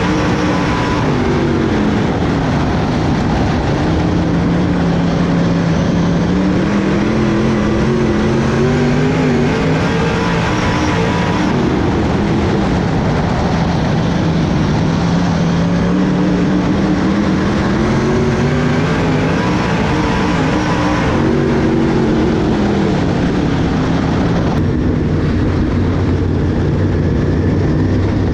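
Dirt-track race car's V8 engine, repeatedly accelerating with a slowly rising pitch and then backing off, in long swings about every ten seconds, as on the straights and turns of an oval.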